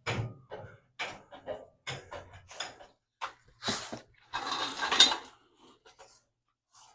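Metal clinks and clanks from a car rotisserie and its jack being pumped, coming irregularly, with a longer scraping rattle about four and a half seconds in.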